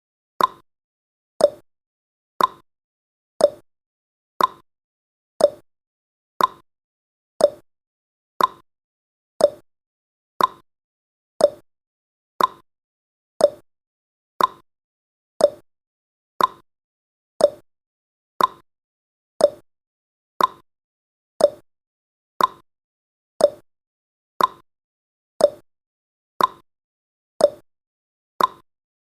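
Countdown timer tick sound effect: one short, sharp tick each second, keeping a steady beat.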